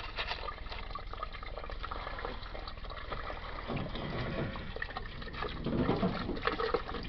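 Water pouring steadily out of a Hotpoint washing machine's lowered drain hose into a drain. The machine is full because of a blocked drain pump, so it is being emptied by hand through the hose.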